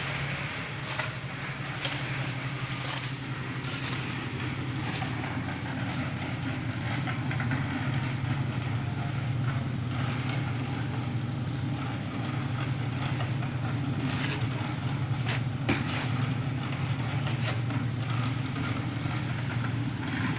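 A small engine running steadily with a low drone, with scattered knocks over it and a short high rising chirp that comes back every four to five seconds.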